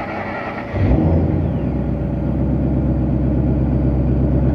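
Rebuilt Ford 5.0 Coyote DOHC V8 being started: a brief crank, then it fires with a loud rise about a second in and settles into a steady idle.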